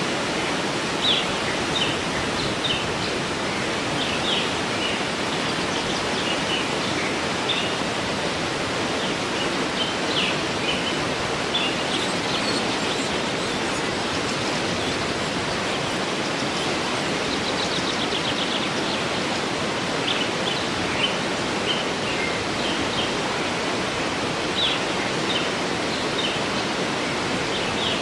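Steady rush of a waterfall, with small birds chirping in short calls throughout and a quick trill a little past the middle.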